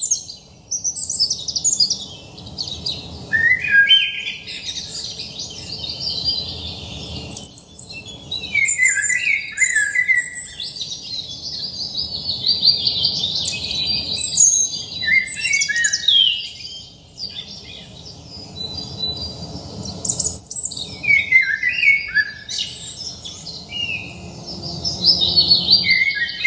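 Songbirds singing: a near-continuous run of quick chirps, trills and short gliding whistles, with brief pauses between phrases.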